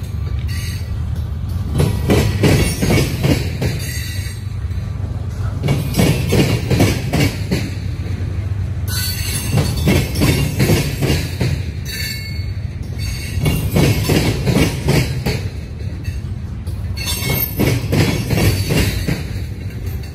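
Train rolling past: a steady low rumble with a fast, continuous clatter of wheels over the rails.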